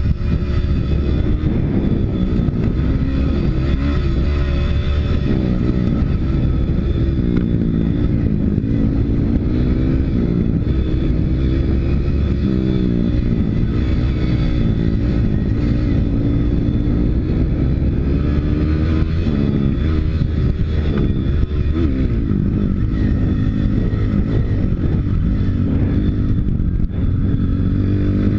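Single-cylinder four-stroke YX 160 pit bike engine being ridden, revving up and easing off over and over as the rider works the throttle and gears.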